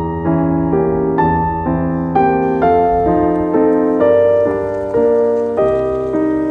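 Background piano music: a melody of single notes struck about twice a second over held low chords.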